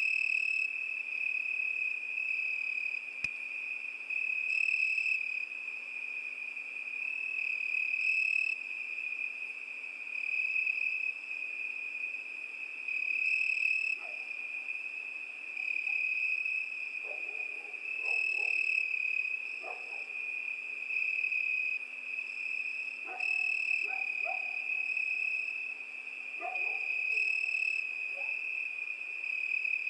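Crickets trilling in a continuous high-pitched chorus that swells and fades every few seconds. From about halfway through, faint short lower calls join now and then.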